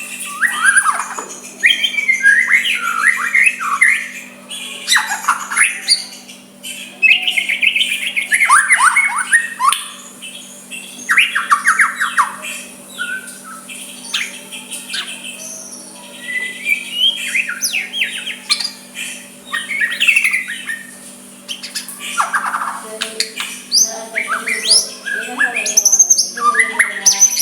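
White-rumped shama (murai batu) singing: bursts of rapid, varied whistled notes in phrases a second or two long, broken by short pauses. A steady faint hum runs underneath.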